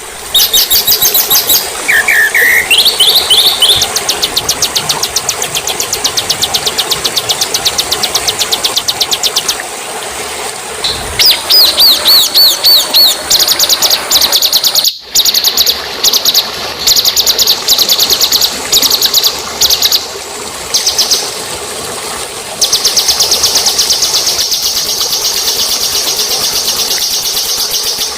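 Songbirds singing: a sequence of different high-pitched birdsongs, rapid trills, fast repeated chirps and short whistled glides, that changes abruptly several times and has a brief dropout about halfway through, like spliced recordings.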